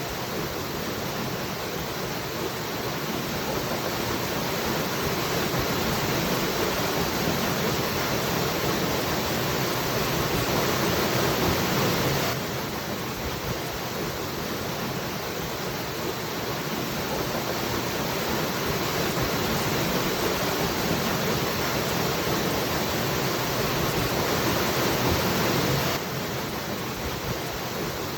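Waterfall rushing, a dense, steady wash of falling water. The level drops suddenly about halfway through and again near the end, then slowly builds back up each time.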